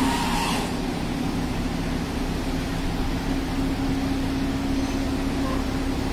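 Lamborghini Huracán's naturally aspirated V10 idling steadily, a low rumble with an even hum.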